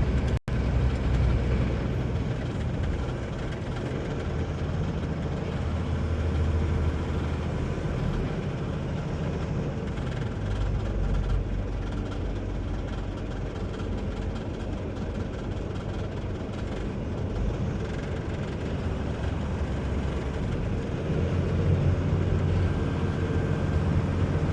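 Loaded tractor-trailer running down a long grade, heard from inside the cab: a steady low diesel engine rumble mixed with tyre and road noise.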